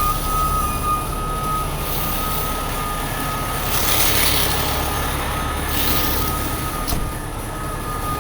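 Heavy diesel tow truck idling with its reversing alarm beeping repeatedly. A brief hiss rises about halfway through.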